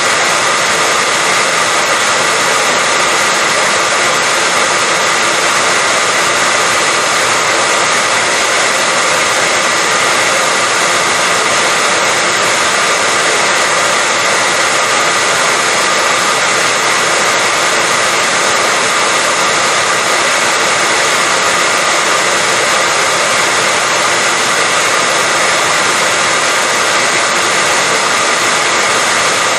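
Hair dryer running steadily: a constant rush of blown air with a faint steady whine, played continuously as white noise to lull a baby to sleep.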